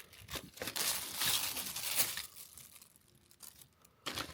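Plastic bag crinkling and rustling as small toys are handled in it, loudest for about a second and a half starting near the first second, with a few light clicks and another short rustle near the end.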